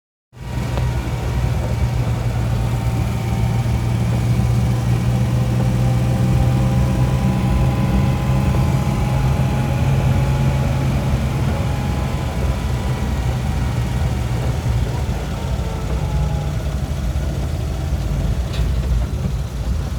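A motor vehicle's engine running steadily at idle, a constant low hum.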